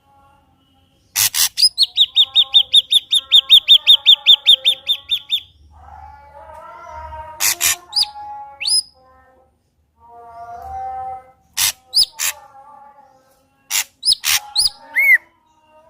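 Ashy drongo singing: a loud, rapid run of about twenty sharp high notes lasting some four seconds, then softer, lower warbling phrases broken by sharp clicks and short whistled up-slurs.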